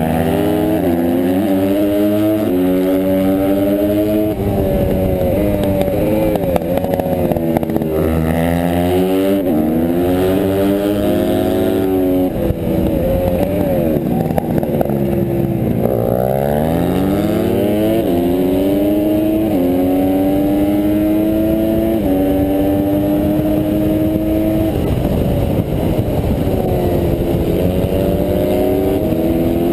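Honda CRF150R pit bike's single-cylinder four-stroke engine at race pace, revving up through the gears in rising steps that drop sharply at each shift, then falling away and climbing again out of corners. About halfway through, the revs fall low and pick back up, as when braking hard into a tight turn.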